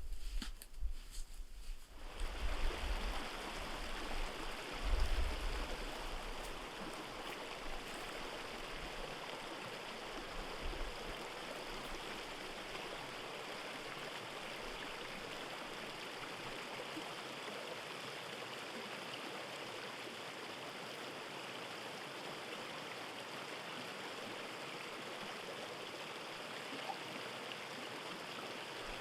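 Steady rushing of a flowing stream, with some low thumps and rumbles on the microphone during the first few seconds.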